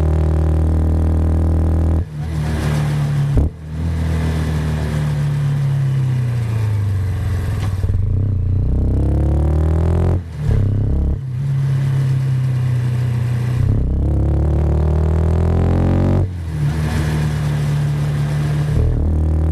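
Motorcycle engine under way, the throttle opened and eased off as the pitch climbs and falls. The engine note breaks briefly several times (about two, three and a half, ten, eleven and sixteen seconds in) at gear changes.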